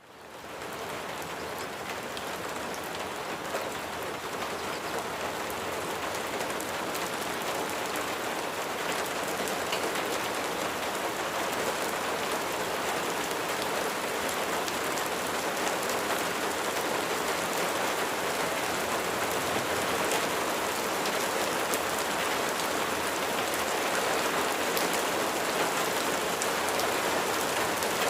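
Steady rain falling on a surface: a dense, even hiss with scattered drop ticks. It fades in from silence at the start and slowly grows louder.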